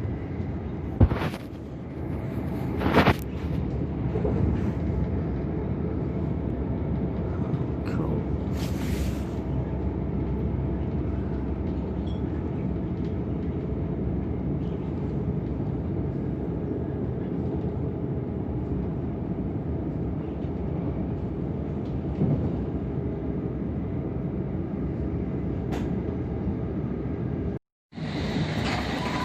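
Steady rumble of a c2c electric passenger train running along the line, heard from inside the carriage, with a few sharp knocks in the first few seconds. It cuts off briefly near the end and gives way to a brighter sound with high-pitched tones.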